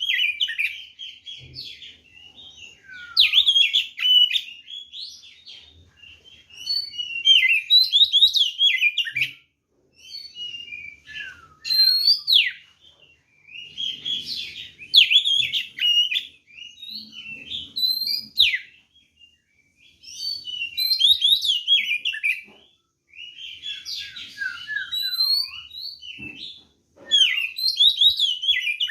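Oriental magpie-robin (kacer) singing: rapid, varied whistled phrases of quickly rising and falling notes, each one to two seconds long, repeated with short pauses between.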